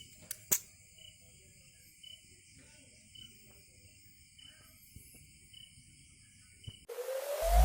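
Faint steady high-pitched outdoor ambience with a short chirp about once a second, like insects, broken by two sharp clicks about half a second in. About a second before the end, electronic music starts with a rising sweep.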